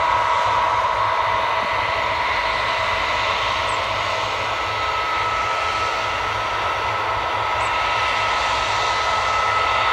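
Case combine harvester running while harvesting barley: a steady machine drone with a high whine over it.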